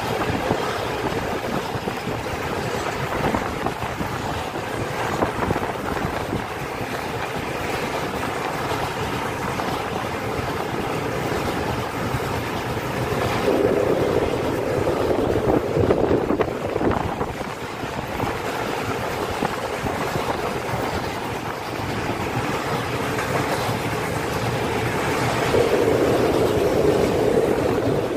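Loaded freight train of open coal wagons rolling past, its wheels running on the rails in a steady noise that swells twice, with wind blowing on the microphone.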